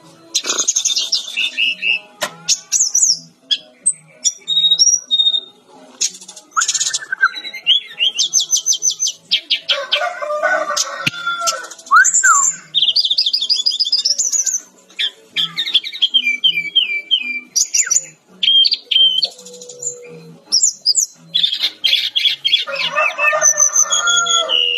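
Fulvous-chested jungle flycatcher (sikatan-rimba dada-coklat, Cyornis olivaceus) singing loudly in bursts of rapid chirps, trills and whistled phrases, with short pauses between them.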